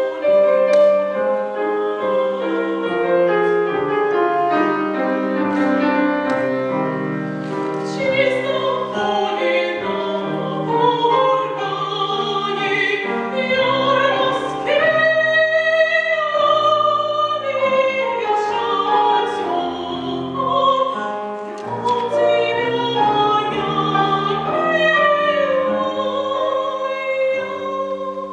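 A child soloist singing a classical art song in trained academic style with vibrato, accompanied by piano. The voice holds one long note about halfway through.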